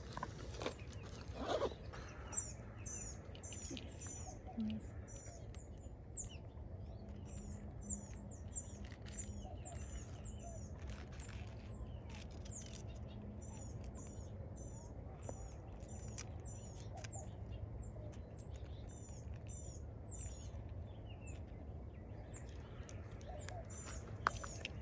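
A small bird chirping over and over in a steady series of short, high, down-slurred notes, a few each second. Scattered scratching sounds, mostly near the start and around the middle, fit pine sap being scraped off the bark.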